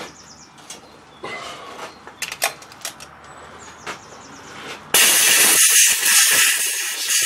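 A few light clicks and knocks of tool handling, then about five seconds in a loud pressurised spray hissing for about two seconds.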